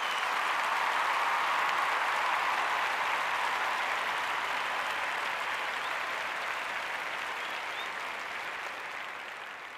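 Applause from a crowd, a dense even clatter that swells in, eases off slowly and cuts off abruptly at the end.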